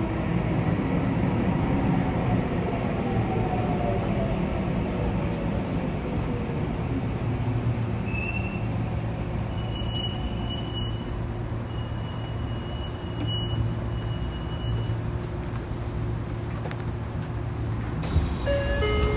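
Saitama Railway 2000 series electric train braking to a stop, its motor whine falling in pitch over the first few seconds. It then stands with a steady low rumble and hum, broken by a few brief high tones in the middle and near the end.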